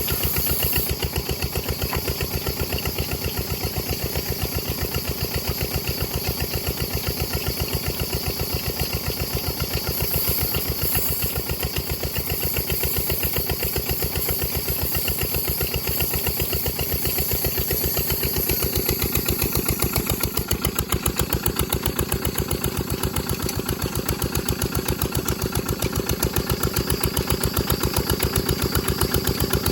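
Diesel engine running steadily with an even, rhythmic beat.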